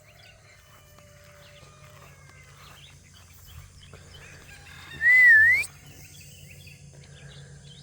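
A single short whistled note about five seconds in that wavers, dips slightly and then sweeps sharply upward before stopping. Faint scattered bird chirps sit behind it.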